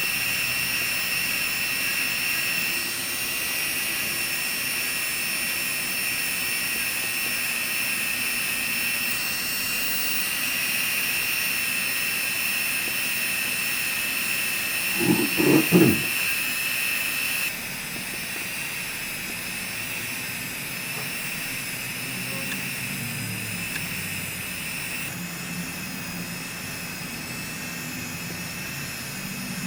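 Electric podiatry drill (micromotor foot file) running with a steady high whine while filing a corn on the sole; it gets quieter a little past halfway, with a brief short clatter just before.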